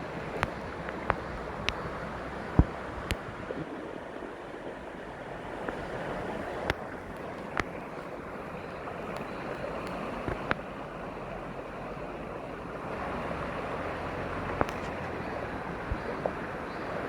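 Mountain stream water rushing steadily, with sharp clicks now and then, the loudest a few seconds in.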